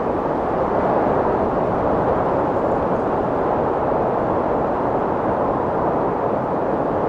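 Strong wind blowing in a steady rushing noise, even and unbroken, with most of its energy in the middle register.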